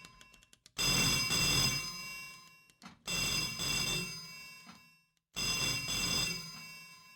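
Telephone bell ringing in three separate rings, each starting loud and fading away, a little over two seconds apart. A few faint clicks come before the first ring.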